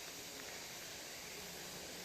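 Faint, steady hiss of background ambience with no distinct events.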